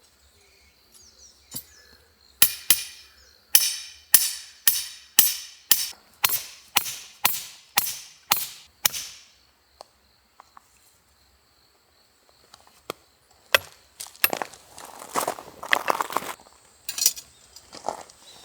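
About a dozen sharp chopping strokes at a steady two or so a second, then a pause. Near the end comes a stretch of crackling, rustling noise.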